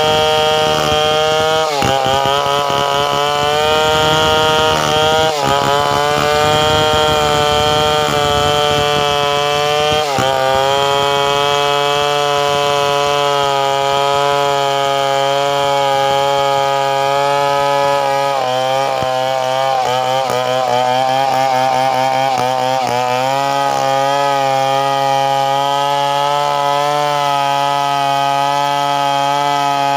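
Chainsaw engine running at high speed. Its pitch drops sharply and climbs back about three times in the first ten seconds, wavers again a little past the middle, then holds a steady high whine.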